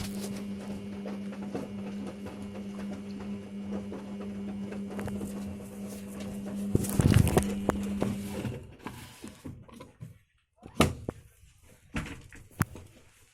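Samsung washing machine running with a steady hum and some knocking. The hum stops about eight and a half seconds in, leaving a few separate clicks and knocks.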